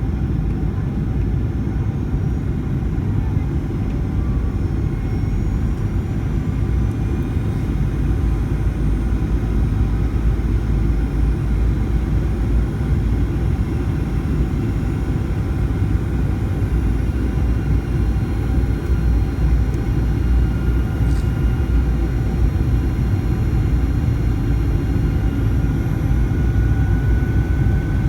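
Steady low rumble of engine and airflow noise inside the cabin of a Boeing 737-900ER airliner with CFM56-7B turbofans. A faint whine rises in pitch near the end.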